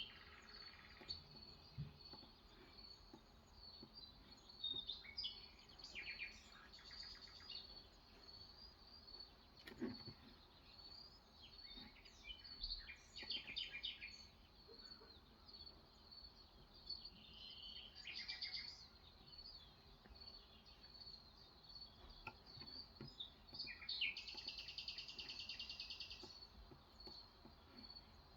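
Faint songbirds chirping on and off, with several short calls and a longer buzzy trill near the end.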